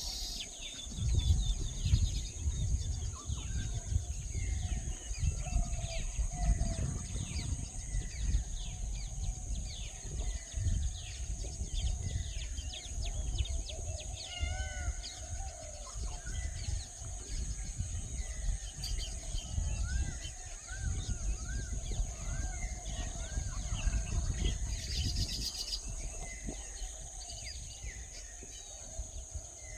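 Small birds chirping and calling over a steady high insect drone, with a repeated series of short arching notes about two-thirds of the way in. A low rumble comes and goes underneath.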